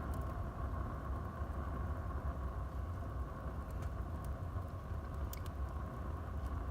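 Wood fire burning in a fireplace: a steady low rumble of flames, with a few sharp crackles from the burning wood, most of them in the second half.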